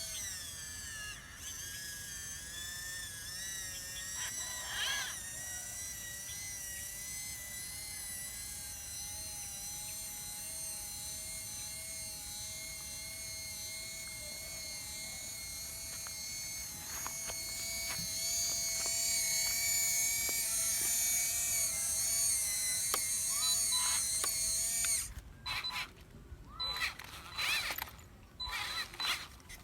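Small electric motor and gears of a radio-controlled construction truck whining steadily, rising slightly in pitch and getting louder partway through. It cuts off suddenly near the end, followed by a few short stop-start bursts.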